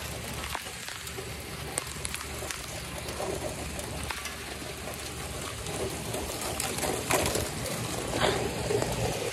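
Steady rain falling, a continuous hiss with a few sharper ticks of drops striking hard surfaces.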